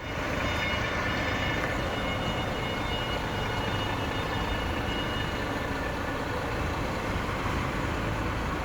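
Truck engine running steadily, with a faint high whine held above the rumble.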